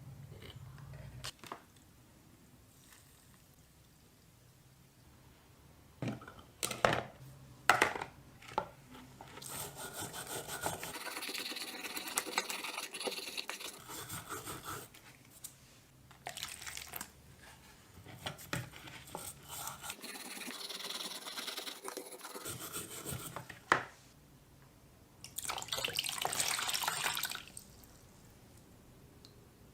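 Hand work on old rusted pliers: a few sharp metallic clicks and knocks, then several few-second stretches of hissing rubbing noise with pauses between them.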